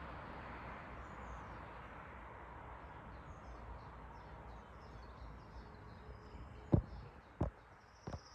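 Steady outdoor background noise with faint, high chirping of small birds, broken near the end by three sharp knocks.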